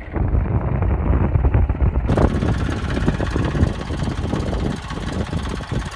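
Eicher 333 tractor engine running, a loud low drone that comes in abruptly, with more hiss joining about two seconds in.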